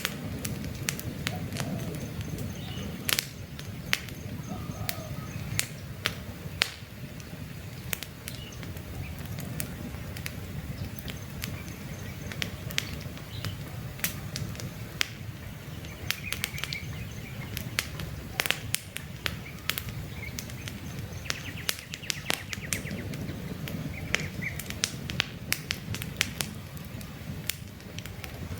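Campfire burning with a low steady rumble and frequent sharp crackles and pops from the wood. Birds chirp now and then.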